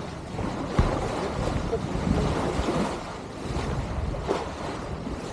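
Wind buffeting the microphone and water rushing past the hull of a keelboat under sail, with a single knock about a second in.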